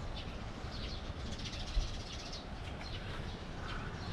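Small birds chirping in short, scattered high notes over a low steady rumble, with a single soft thump a little under two seconds in.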